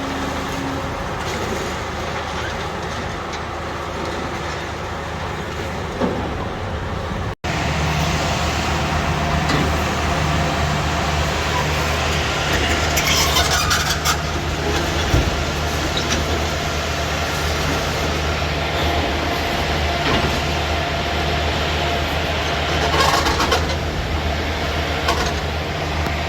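Heavy demolition machinery running steadily with a low diesel-engine drone, with a few louder rattling bursts of noise.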